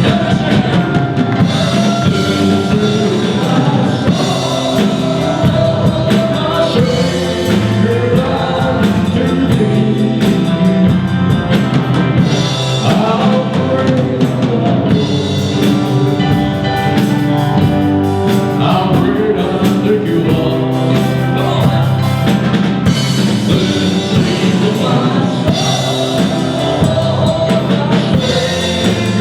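Live band music with singing over a drum kit, a gospel hymn in a slow country style.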